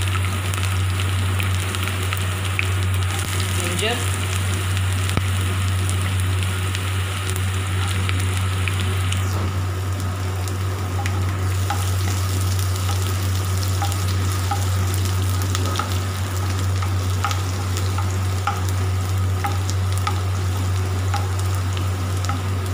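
Cumin seeds and chopped garlic and ginger sizzling steadily in hot oil in a nonstick pan, stirred with a wooden spatula. A steady low hum runs underneath.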